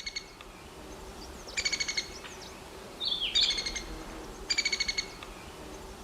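A songbird gives short, rapid buzzy trills of about half a second each, repeated roughly every second and a half, with a slurred call note about three seconds in.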